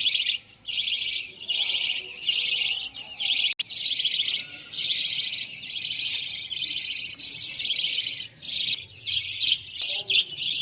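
A flock of budgerigars (Australian parrots) chirping and chattering constantly at a high pitch, in stretches broken by short pauses.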